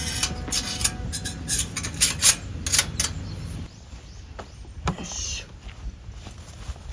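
A run of sharp knocks and clinks of camping gear being handled, thickest in the first few seconds and sparser after, over a low rumble that drops away about halfway through.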